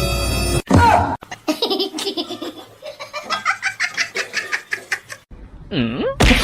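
A person laughing in rapid, repeated bursts, several a second, for about four seconds. The laugh ends with a short rising-and-falling vocal sound. Background music cuts off just before it begins.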